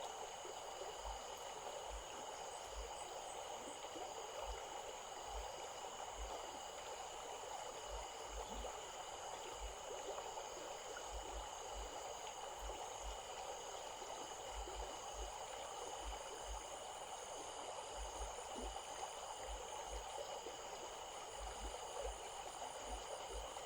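Stream water flowing steadily, with faint steady high-pitched tones running above it.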